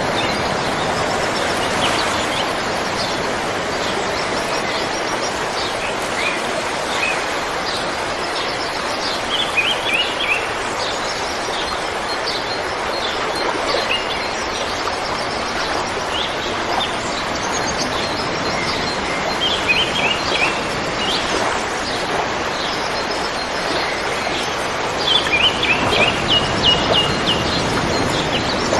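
River water flowing in a steady rush, with songbirds chirping over it in several short runs of quick, high chirps.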